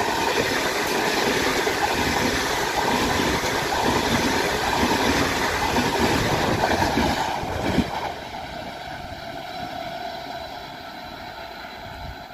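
A train passing close by at speed: loud rushing of wheels on rails that drops off suddenly about eight seconds in, leaving a quieter rumble with faint steady tones.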